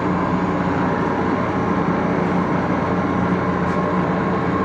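1941 Axelson gear-head lathe running steadily, a constant drone with several steady tones in it.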